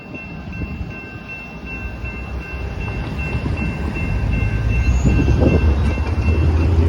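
Grade-crossing bells ringing in quick, even strokes while a freight train rolls past, stopping shortly before the end. Underneath, a low rumble builds steadily louder.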